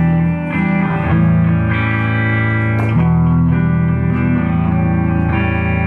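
Live band playing an instrumental passage: guitar chords over a steady bass line.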